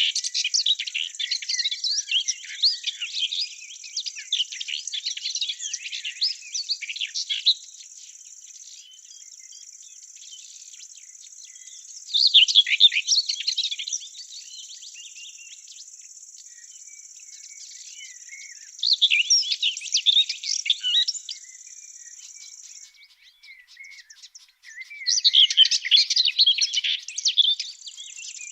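Songbirds singing in bouts of rapid, high chirping phrases a few seconds long, separated by pauses. Under them runs a steady high whine that drops out about three quarters of the way through.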